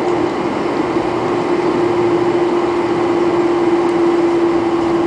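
Steady cabin noise inside a Boeing 747-400 airliner: a constant droning tone over an even rush of air.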